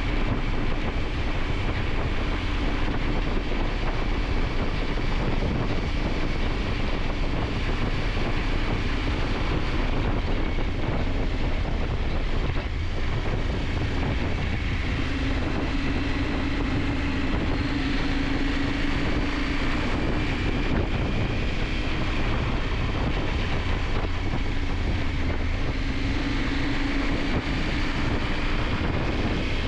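KTM 890 Adventure's parallel-twin engine running on the road, under heavy wind noise on the microphone. The engine note rises and falls with the throttle, most clearly a little past the middle and again near the end.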